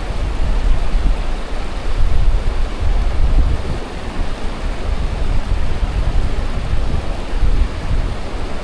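Strong wind buffeting the microphone: a loud, gusting rumble that swells and eases every second or so.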